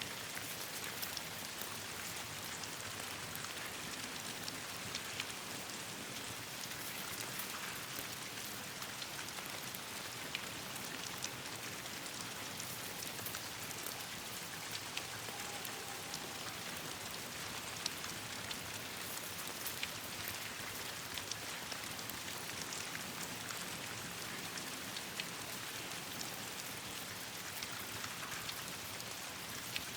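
Steady rain falling on leaves and branches, with many scattered sharp ticks and pops.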